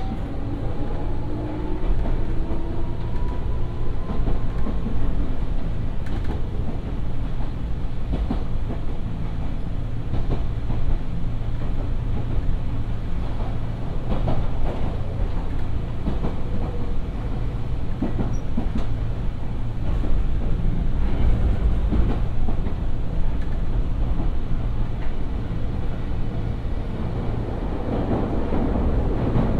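Nankai 2200 series electric train running along the track: a steady low rumble with clicks of the wheels over rail joints. A whine rises in pitch over the first few seconds as it picks up speed.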